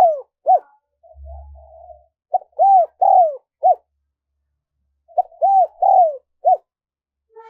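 Spotted dove (cu gáy) cooing: repeated phrases of a short note, two longer arched coos and a short clipped end note, coming about every two and a half seconds.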